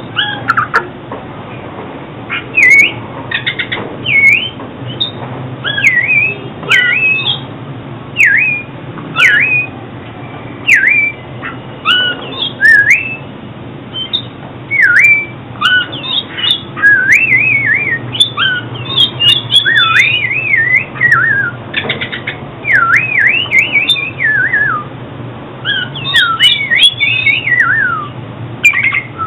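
Oriental magpie-robin singing: a run of short, clear whistled phrases whose notes swoop up and down, one phrase after another with brief gaps between them.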